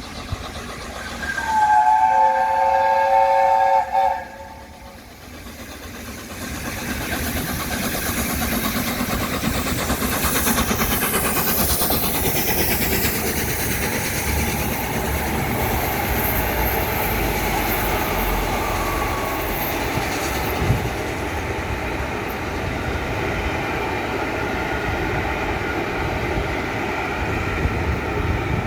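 A whistle sounds a loud chord of several notes for about two and a half seconds. Then the steam locomotive 60163 Tornado, an LNER Peppercorn A1 Pacific, and its train roll through with a steady rumble and wheel noise on the rails.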